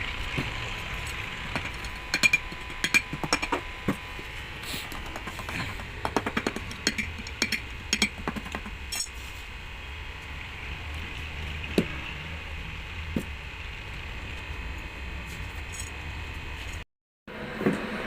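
Tools and hard parts clinking and tapping as they are handled: a quick run of sharp clicks through the first half, then two single taps a little past the middle, over a steady workshop hum.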